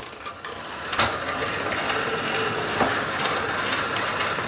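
Hand-cranked forge blower turning: a click about a second in, then a steady whir of its gears and fan spinning.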